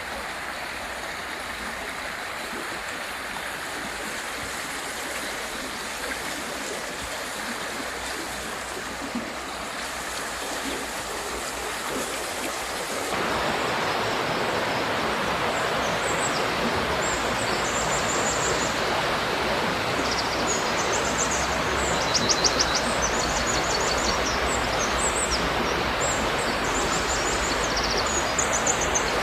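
A mountain river rushing steadily over rocks. About 13 seconds in the rushing becomes louder and fuller. From about 15 seconds, small birds chirp and trill high above the water.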